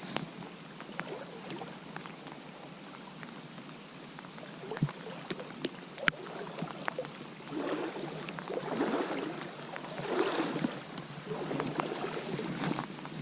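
Creek water running steadily, with a few sharp clicks. From about halfway through come irregular bursts of splashing.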